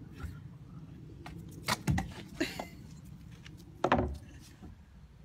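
A long wooden stick carried in a dog's mouth knocking against the wooden railings of a footbridge. There are three quick knocks about two seconds in and a louder one near four seconds.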